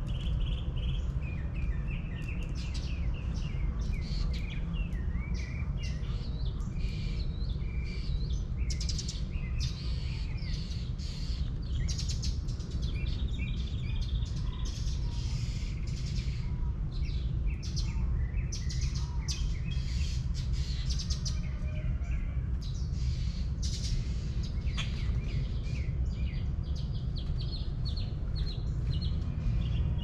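Birds chirping and calling, many short high notes throughout, over a steady low rumble.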